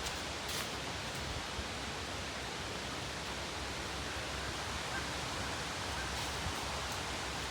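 Steady, even outdoor hiss of background ambience, with a few faint ticks near the start.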